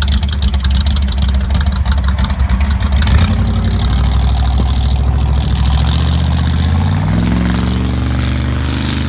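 Loud car engine running at low revs with a rapid, rough pulse, then its pitch climbing steadily over the last two seconds as it revs up.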